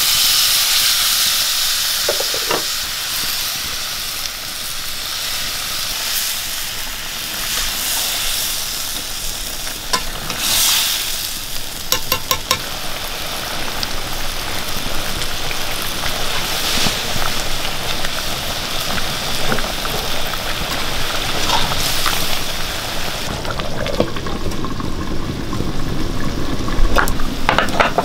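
Water poured into hot chicken curry in a kadai over a wood fire, with a loud hiss and sizzle that eases after a couple of seconds. The curry then simmers and sizzles while it is stirred, with a few light clicks of the spoon against the pan.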